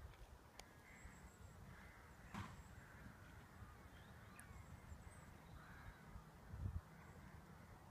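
Near silence with faint bird calls now and then, and one low thud about six and a half seconds in.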